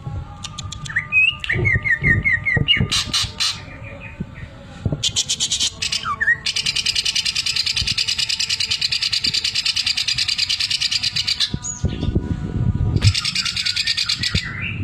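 Cucak ijo (leafbird) singing: a short run of repeated rising whistled notes, then a long, very fast, even mechanical-sounding rattle, the 'sewing machine' mimicry phrase, and another rattle near the end.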